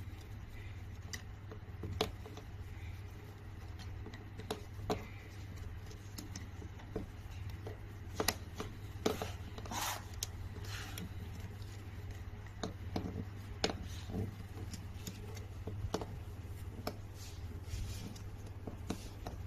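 Scattered light clicks, taps and brief scrapes of hand work on parts and wiring, irregular and unhurried, over a steady low hum.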